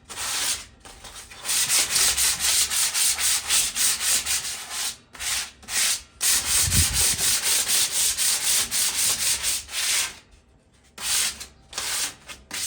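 Sandpaper rubbed back and forth by hand over a metal patio chair's rusted frame, about four strokes a second with a few short pauses, taking off light surface rust to prepare the metal for spray paint.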